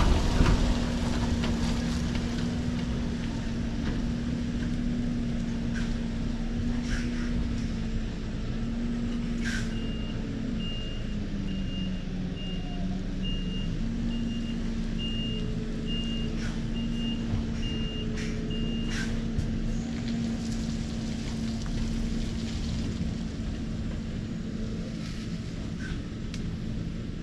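Heavy goods vehicle's diesel engine running steadily, its note dipping for a couple of seconds partway through. For about nine seconds in the middle, a reversing alarm beeps about once a second while the lorry backs up. A few short, sharp hisses or clicks cut through now and then.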